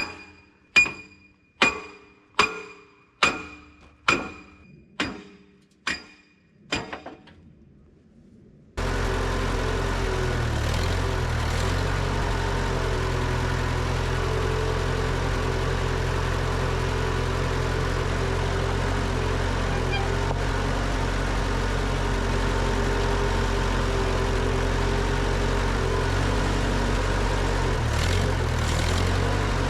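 A hammer striking metal about once a second: nine ringing blows that grow fainter. After a short pause, the Allis Chalmers i40 tractor's engine starts up abruptly and runs steadily.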